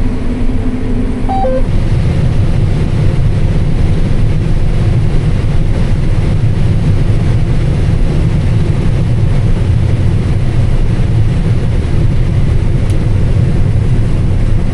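Combine harvester running steadily while harvesting corn, heard as a loud, even low drone from the cab. Two short tones sound about a second and a half in.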